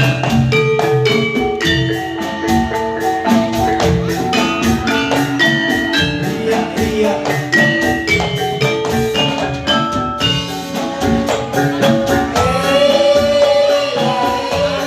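Javanese gamelan playing jathilan music: quick struck metallophone notes over regular drum beats, with a held, wavering note coming in about twelve seconds in.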